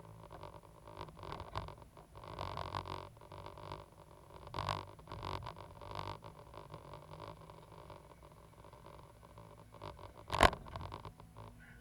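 Cat 320GC hydraulic excavator's diesel engine running steadily under irregular scraping and clanking as the machine works, with one sharp, loud bang about ten seconds in.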